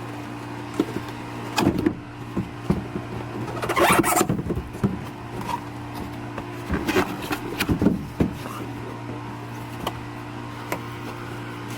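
Rustling and light knocks from handling the new truck side mirrors, over a steady low hum.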